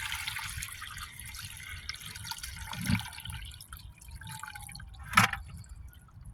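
Water sloshing and dripping in a gold pan as the last pan of creek gravel is washed down to its concentrate, the splashing fading out about halfway through. A dull knock comes about three seconds in and a sharp click near the end.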